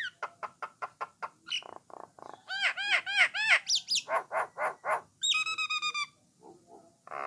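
Common myna (Jalak Nias / Jalak Coklat) singing a rapid, varied song: quick clicks, a run of arching notes and a rich held whistle, trailing off into softer notes near the end.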